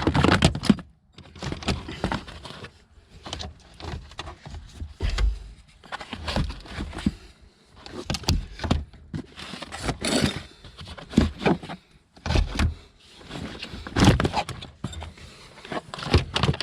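Gear-shift cables and metal fittings being handled and pulled free: irregular clicks, knocks and rattles, loudest about ten and fourteen seconds in.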